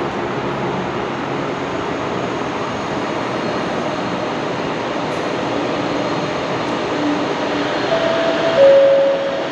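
Kelana Jaya Line LRT train, a driverless linear-induction-motor train, passing through a station platform without stopping, with a steady rush of wheels and motors. Near the end two short steady tones sound, a higher one and then a lower, louder one.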